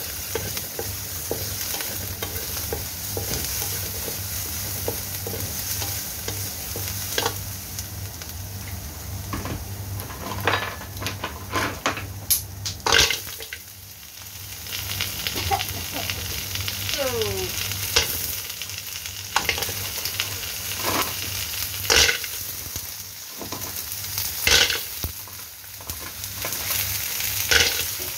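Minced garlic, shallots and chili sizzling in hot oil in a wok, stirred and scraped with a wooden spatula. About halfway through, sea snails in their shells go in, and the hard shells clack against the wok and each other with each stir, as sharp knocks over the steady sizzle.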